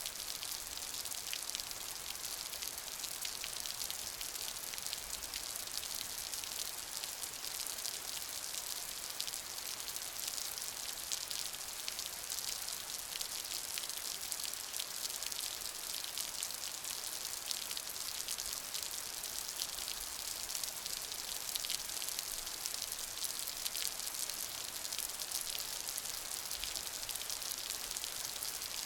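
Steady rainfall: a continuous hiss of rain with many fine, dense drop patters and no change in intensity.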